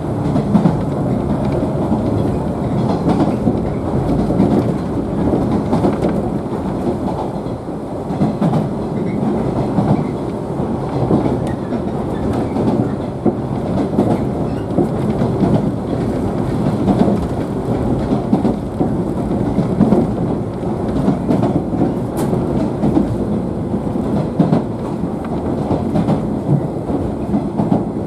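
Inside the passenger cabin of a JNR 113 series electric train, the car running along the track with a steady rumble of wheels on rail and frequent small knocks.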